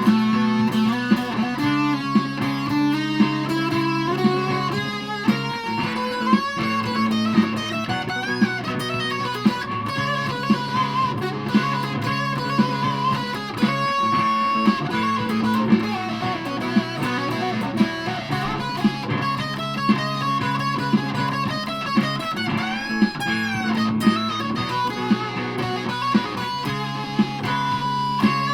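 Electric guitar (Aria Pro II Thor Sound) played through a Behringer fuzz pedal, sustained fuzzed notes over a held low note, with melodic lines above and a sharp accent about once a second.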